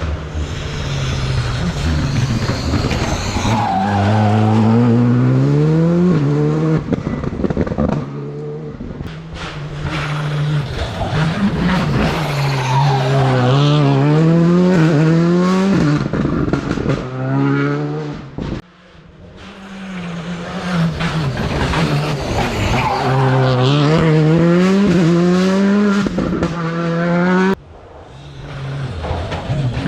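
Rally cars at full throttle. The engines rev up through the gears in repeated rising sweeps, with tyre noise. The sound cuts off abruptly twice, once about two-thirds of the way through and once near the end.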